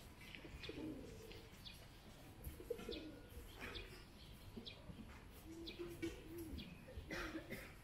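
Low cooing bird calls, about four in a row a second or two apart, with faint short chirps from smaller birds in between.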